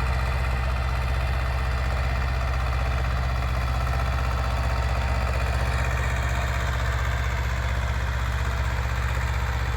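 Swaraj 724 4WD tractor's diesel engine idling steadily with an even low beat.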